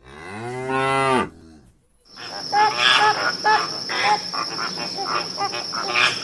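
A cow mooing once, a pitched call of about a second. After a short pause comes a dense run of many short, high calls, layered over a steady high-pitched ring.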